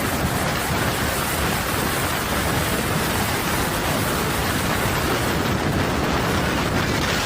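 Heavy thunderstorm rain, a steady even rushing noise.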